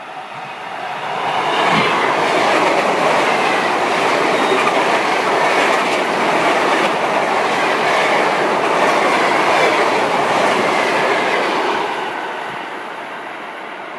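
A train passing by at speed without stopping: its rolling noise builds over about two seconds, holds loud for about ten, then fades as it goes away.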